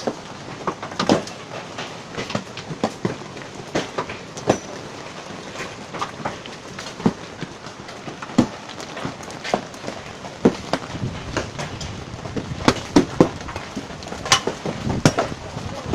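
Hail falling hard: a steady hiss of hail and rain, with irregular sharp knocks of hailstones striking hard surfaces that come thicker in the second half.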